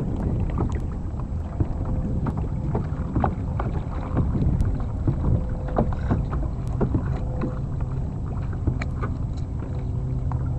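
Small splashes and water lapping around a moving kayak, with wind rumbling on the microphone.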